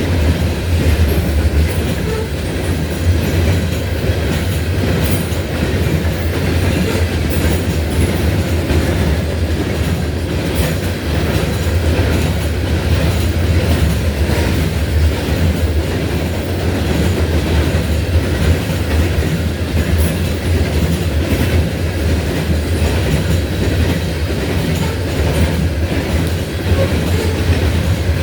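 A loaded coal train rolling past: a steady, heavy rumble of wheels on rail with scattered clicks over the rail joints.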